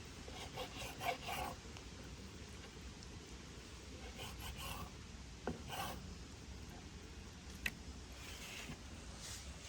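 Intermittent rubbing and scraping sounds in short bouts, with one sharp click about three-quarters of the way through.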